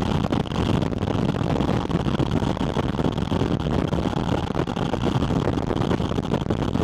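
Porsche 718 Spyder RS's flat-six engine picked up at its air intake while driving: a steady, loud intake and wind rush with no rise or fall in pitch.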